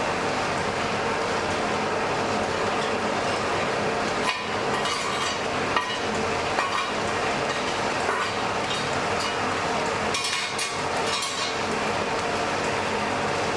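Blacksmith's forge fire burning with a steady rushing noise and a low hum underneath, with bursts of crackling and sizzling about four to six seconds in and again around ten seconds in.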